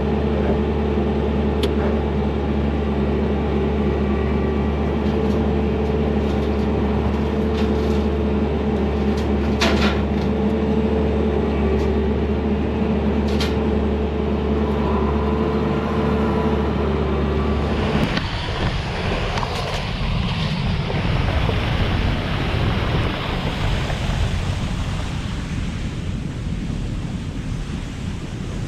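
Skid steer's diesel engine running steadily under load, driving a hydraulic brush mower, with a few sharp snaps along the way. About two-thirds of the way in the engine sound cuts off suddenly and gives way to a steady rushing noise, like wind on the microphone or moving water.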